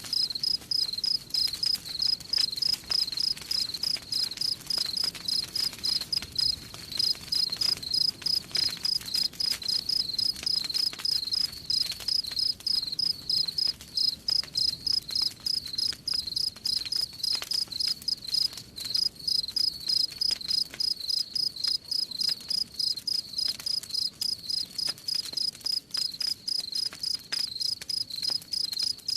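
Crickets chirping in a steady, even rhythm of several high chirps a second, with faint crackling of a campfire underneath.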